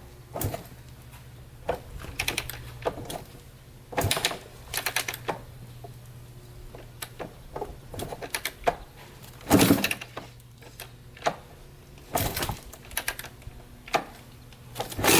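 1995 Kawasaki KX250 two-stroke dirt bike being kickstarted: repeated clunks and clatter of the kick lever with gaps between strokes, the loudest about nine and a half seconds in, as the engine is primed and kicked over. The engine catches right at the very end.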